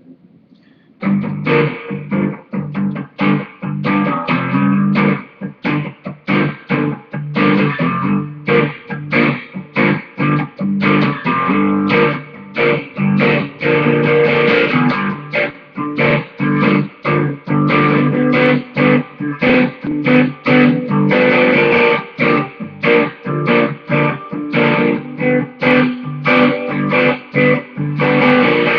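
Guitar strummed in a steady rhythm, starting about a second in: the instrumental intro of a song before the vocal comes in.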